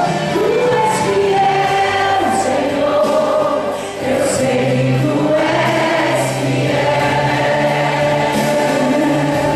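Church choir singing a gospel song, several voices holding long notes in harmony, with a short break between phrases about four seconds in.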